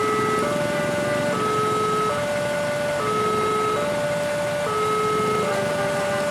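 Railway level-crossing warning alarm sounding, two alternating tones, a low one and a higher one, each held just under a second and repeating evenly, over a steady rumble of engines.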